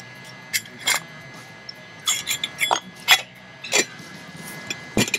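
Metal camp cookware clinking and tapping: a utensil and a small metal pot with its lid, with a quick run of sharp clinks about two seconds in and a duller knock near the end.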